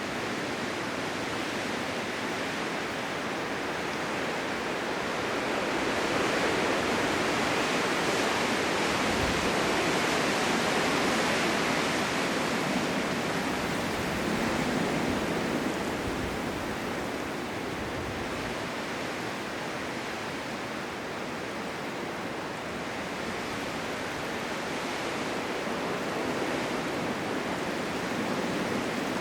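Blizzard wind: a steady rushing noise that swells in gusts, loudest about a quarter of the way in and again near the end, with a few brief low rumbles in the middle.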